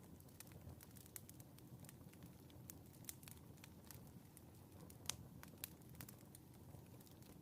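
Faint wood fire crackling in a fireplace: irregular sharp pops over a low steady rumble, with one louder pop about five seconds in.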